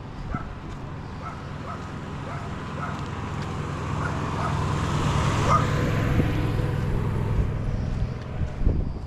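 A car passing on the road beside the path: its tyre and engine noise grows louder toward the middle, then eases off.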